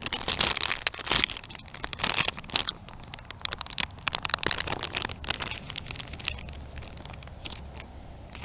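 Close, irregular crinkling and crackling from hands handling fishing bait and tackle, taking out a fresh piece of soft worm to rig on the hook. It is dense for the first five seconds or so, then thins out and gets quieter.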